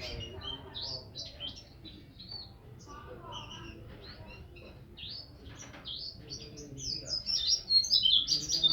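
White-eye (pleci) songbird chirping in quick high notes, breaking into a loud, dense burst of song about seven seconds in.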